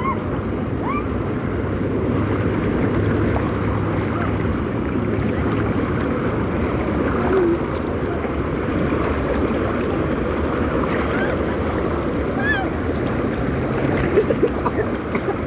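Steady rushing and churning of water in a water-park pool, an even noise with no breaks.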